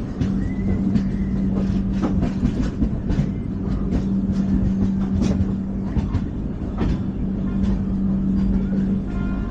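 Indian Railways LHB passenger coach running on the track: a continuous rumble of wheels on rail with irregular clicks and knocks over it, and a steady low hum.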